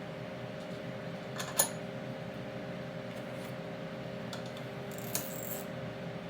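Light metallic clinks of bolts and hand tools being handled during differential assembly: a sharp clink about one and a half seconds in and a smaller one about five seconds in, over a steady shop hum.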